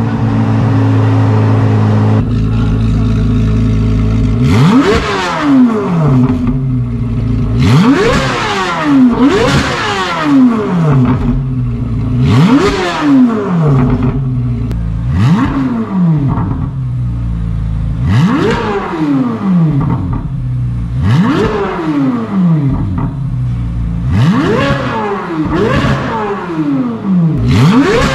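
2023 Corvette C8 Z06's flat-plane-crank 5.5-litre V8 idling steadily, then free-revved in sharp blips about every three seconds, each rev rising quickly and falling back toward idle.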